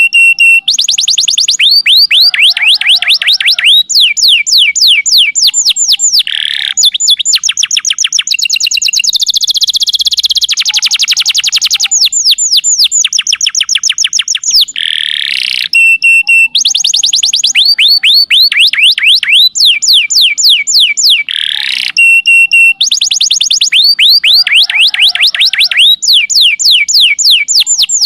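Domestic canary singing a loud, continuous song of fast trills, each a rapid run of identical sweeping notes, with the trill type switching every second or two. The same sequence comes round again about every fifteen seconds, as in a looped canary tutor (masteran) recording.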